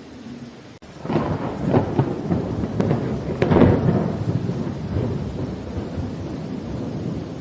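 Thunder over steady rain: a crackling peal breaks in about a second in, swells to its loudest at around three and a half seconds, then fades into a long, low rumble while the rain keeps falling.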